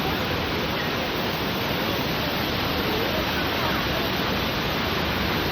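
Waterfall rushing: a steady, even noise that holds without a break, with faint wavering voice-like sounds under it.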